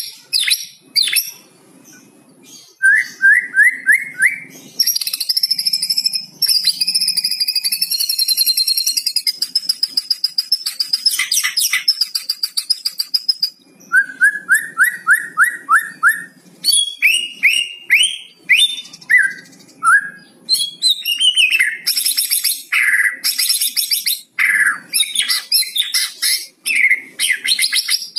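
White-rumped shama singing a varied song. It has runs of quick rising notes, a long rapid rattling 'kretek' phrase in the middle, and clear whistled notes.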